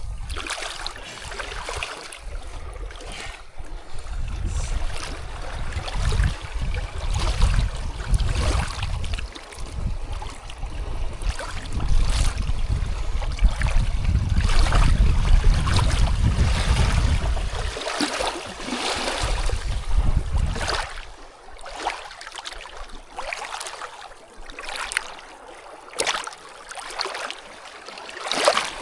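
Wind buffeting the microphone in gusts over a steady rush of moving water, with scattered sharp clicks and knocks; the wind rumble drops away about two-thirds of the way through.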